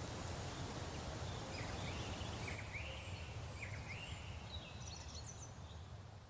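Faint dusk forest ambience: a low steady hum under scattered short, high chirping calls, fading out near the end.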